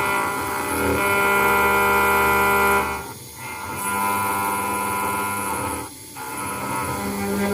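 CNC router spindle with a 1 mm ball-nose cutter machining a brass plate, a steady whine of many tones. It drops away briefly twice, about three seconds apart, as the cutter moves between cuts.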